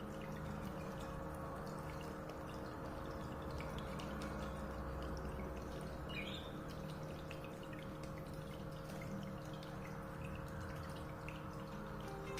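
Small splashes and drips of water as a budgie bathes and plays in it, with one short high chirp-like sound about halfway through.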